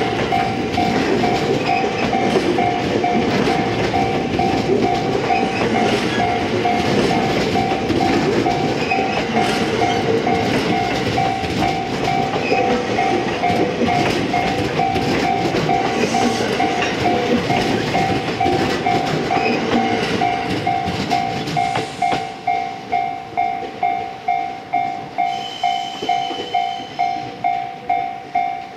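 A JR West 227 series 'Red Wing' electric train passes close by with wheel-on-rail rumble and clatter over rail joints, and the noise drops away about 22 seconds in as it clears. Under it, a level-crossing warning bell rings steadily at about two and a half strikes a second, still ringing for a second train approaching.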